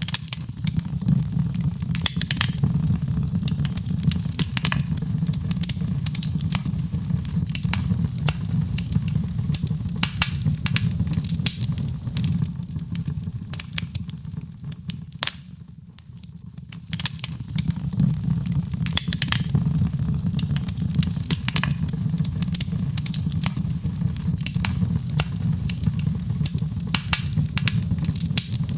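Wood fire in a fireplace crackling and popping, with many sharp snaps over a steady low rumble of flames. The rumble fades briefly about halfway through, then returns.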